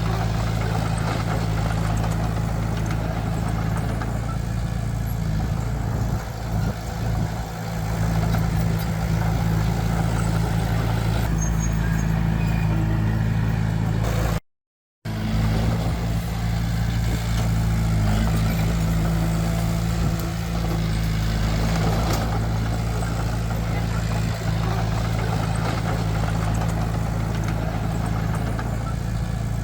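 Heavy diesel engine of earthmoving machinery running steadily with a low, even drone. The sound cuts out for about half a second midway, then carries on.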